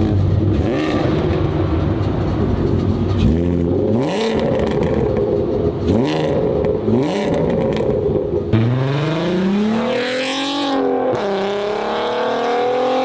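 Volkswagen 3.2-litre VR6, a narrow-angle V6, idling with three quick blips of the throttle. It then accelerates away, its pitch climbing, dropping once near the end and climbing again.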